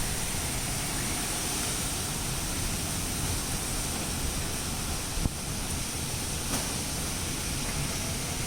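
Heavy rain pouring down in a steady hiss, with one short knock about five seconds in.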